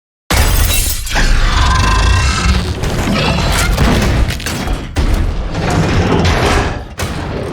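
A loud film soundtrack mix of crashing and booming noise with music under it, cutting in suddenly out of total silence about a third of a second in.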